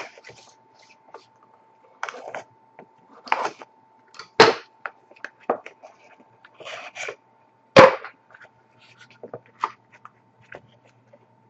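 A sealed trading card box being opened by hand: cardboard and wrapper rustling with scattered clicks and two loud sharp snaps, about four and a half and eight seconds in.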